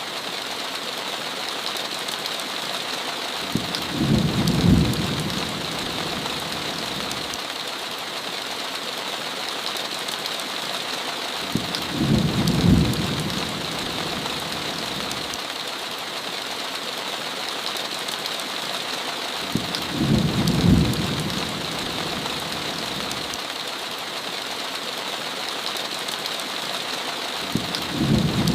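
Steady heavy rain with a short, low rumble of thunder about every eight seconds, four in all.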